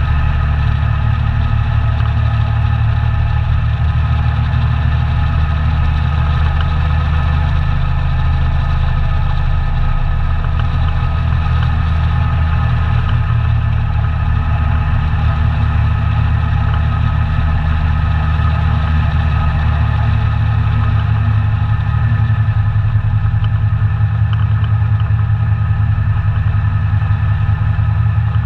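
ATV engine running steadily and loud, its low drone holding a near-constant pitch, with a slight rise in level about two-thirds of the way through.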